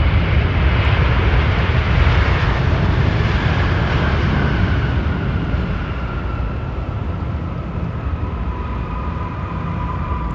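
Jet airliner's engines in reverse thrust just after touchdown: a loud rush of jet noise that eases off over several seconds, with a whine falling in pitch as the engines spool down.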